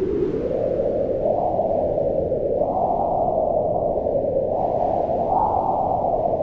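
Howling mountain wind, a steady rush whose pitch rises and falls in slow swells.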